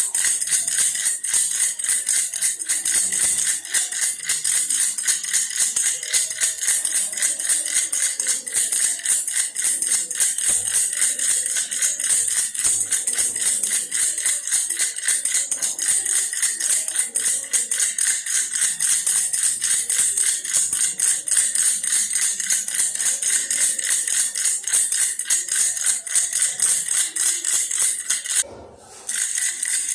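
Baby's toy bear rattle shaken quickly and without pause, a dense rattling patter. It stops for about half a second near the end, then starts again.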